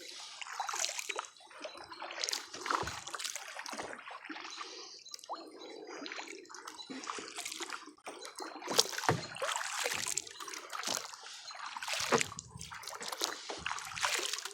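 Kayak paddle blades dipping and pulling through the water, splashing and dripping in a steady stroke rhythm of about one stroke a second.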